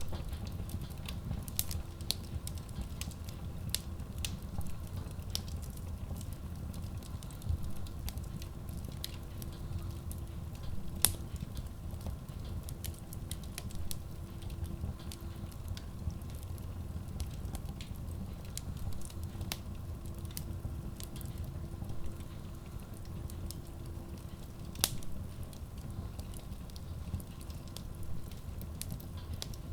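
Wood logs burning in a Kratki Koza K6 stove-fireplace: a steady low rumble of flame with frequent sharp crackles and pops, two of them louder, about 11 and 25 seconds in.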